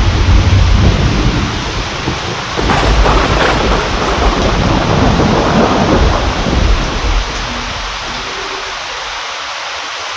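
Steady heavy rain with rolling thunder rumbling low under it; the thunder dies away in the last few seconds, leaving only the hiss of the rain.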